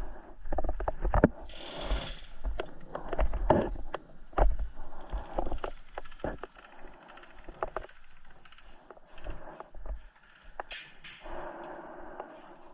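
Irregular clicks, knocks and rustling of gear being handled and a player moving, with low bumping rumble throughout and two short hissing bursts, one about two seconds in and one near the end.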